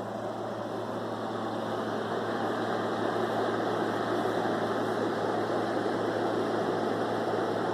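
Window air conditioner running: a steady whoosh of fan and compressor over a low hum, slowly growing a little louder. It is heard behind a plywood sound barrier built to cut its noise.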